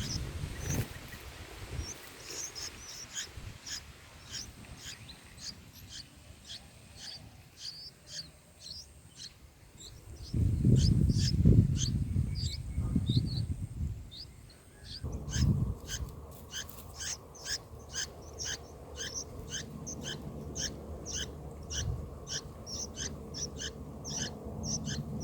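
Bulbuls chirping: short, high calls repeated many times, quickening to an even run of about three a second from about halfway through. A loud low rumble comes in for a few seconds in the middle.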